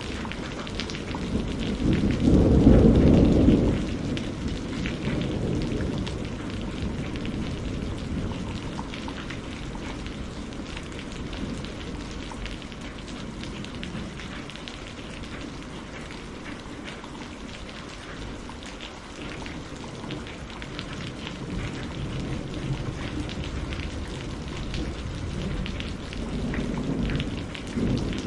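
Steady rain falling, with a roll of thunder about two seconds in, the loudest part, which dies away by about six seconds. A softer rumble of thunder rises near the end.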